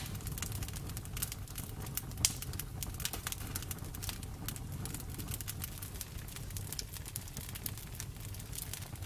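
Campfire burning, its wood crackling with irregular sharp pops over a low steady rumble of flame; one louder pop about two seconds in.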